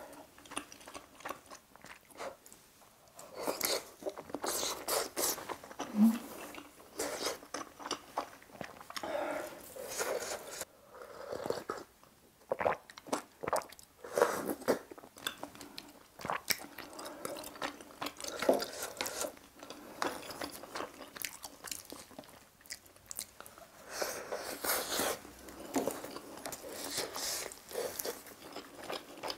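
Close-miked chewing and biting of army-stew pieces, wet and crunchy mouth sounds in irregular bursts, with occasional sharp clicks of chopsticks and ladle.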